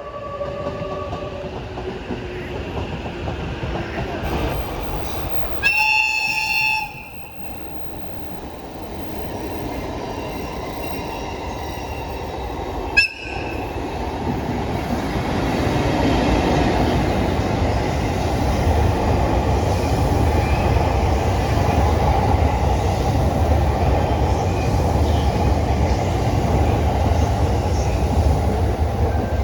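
Electric train running on rails, with one warning-horn blast about a second long some six seconds in and a very short sharp toot near the middle; the rolling noise then grows louder and steadier as the train picks up speed or passes close.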